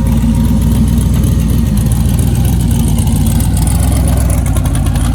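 A car engine idling steadily, loud and close.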